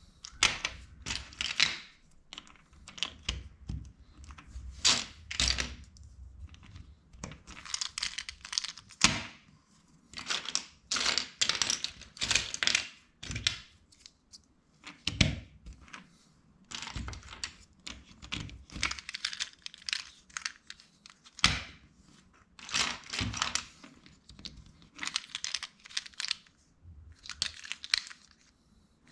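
Plastic LEGO bricks being handled and pressed together: repeated spells of rattling, rustling and sharp clicks with short pauses between them.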